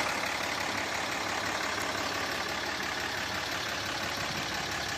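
Cummins 6.7-litre inline-six diesel engine of a 2008 Dodge Ram 2500 idling steadily.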